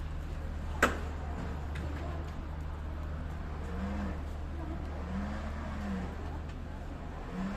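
Steady low engine hum of an idling vehicle, with one sharp bang about a second in.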